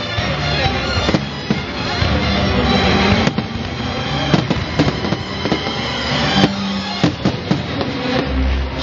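Fireworks going off in an irregular string of sharp bangs and crackles, over steady music.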